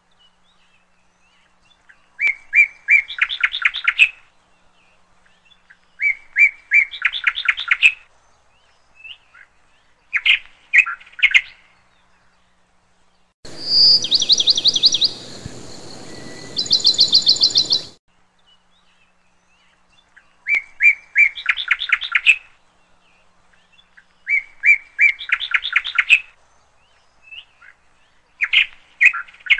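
A songbird repeating the same short song about every four seconds: a few even notes, then a fast run of notes rising in pitch. In the middle, a different, higher trilled call sounds twice over a background hiss.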